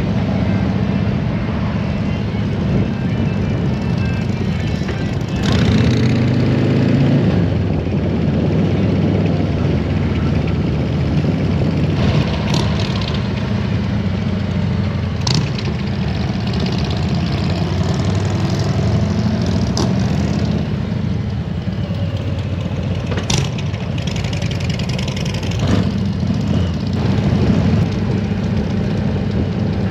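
Harley-Davidson Road Glide's V-twin engine running steadily, a little louder for a couple of seconds about six seconds in, with a few short sharp clicks scattered through.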